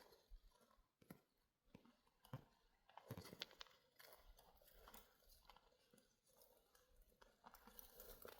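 Near silence with a few faint, scattered clicks and crackles.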